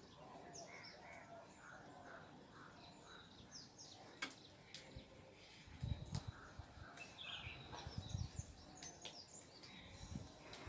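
Faint background birds chirping, with a call repeating about twice a second. From about halfway through there are a few soft low thumps.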